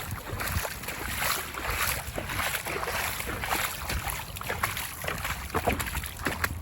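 Floodwater running and splashing steadily, a continuous uneven wash of water noise.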